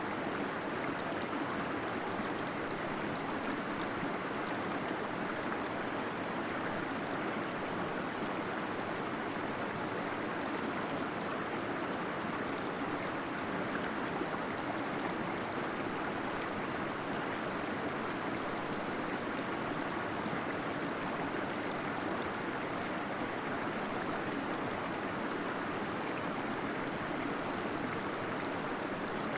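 Waterfall flowing in a cave: a steady rush of splashing, gurgling water.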